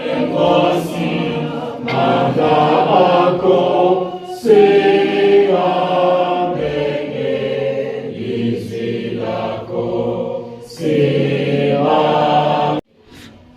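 A choir singing together, in phrases of a few seconds each, cutting off abruptly near the end.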